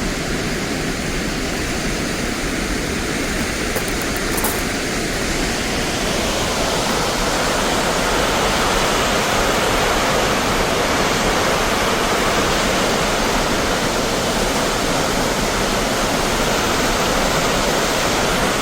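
Steady rush of a large waterfall, a dense even noise of pounding water that grows louder about six seconds in.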